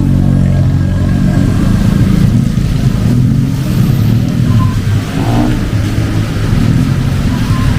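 A motor vehicle's engine running close by in street traffic, a steady low drone.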